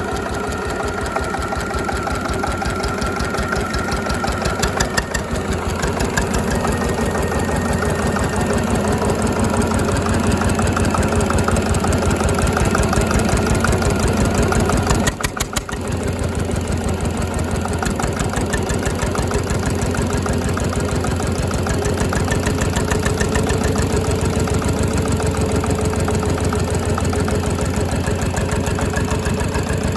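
Slavia 8 hp single-cylinder stationary diesel engine running steadily, its even knocking beat keeping a constant pace. The sound drops briefly about halfway through, then carries on the same.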